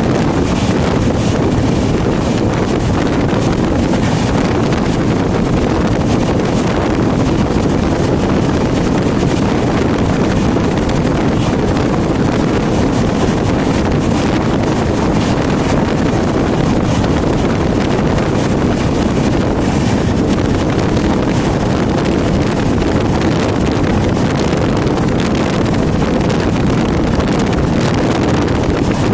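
A moving passenger train running: a loud, steady rumble with faint rattling clicks throughout, and wind buffeting the microphone.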